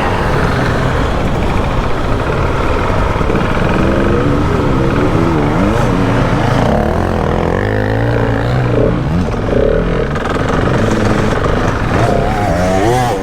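Husqvarna 701 Enduro's single-cylinder engine being ridden on a dirt track, its pitch rising and falling again and again with the throttle, over a constant rumble of wind and ground noise.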